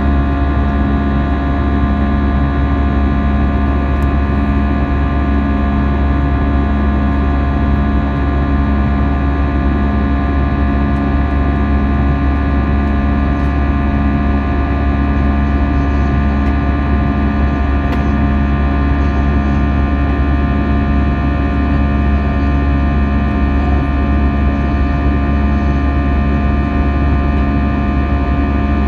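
Airbus A320 cabin noise in flight: a steady engine drone and rush of air over a heavy low rumble, with several steady whining tones on top.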